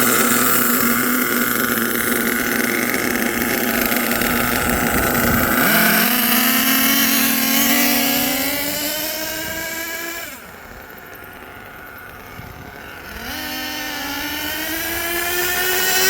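Twin LRP .32 big-block nitro engines in an HPI Savage XL RC monster truck running under throttle. Steady at first, the pitch climbs from about six seconds in as the truck accelerates, drops away and goes quieter near ten seconds as the throttle comes off, then climbs again in the last few seconds.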